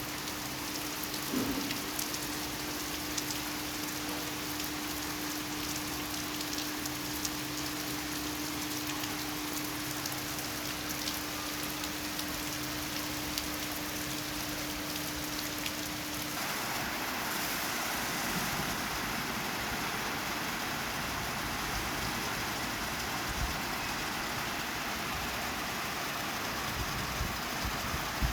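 Steady rain falling, an even hiss with scattered ticks of individual drops. A steady hum runs underneath until a little over halfway through, when it stops and the rain's hiss grows fuller.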